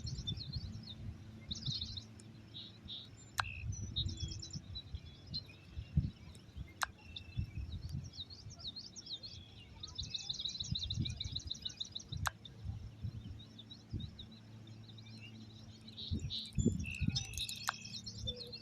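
Small birds chirping in bouts of rapid, high trills, with a low rumble underneath and a few sharp clicks.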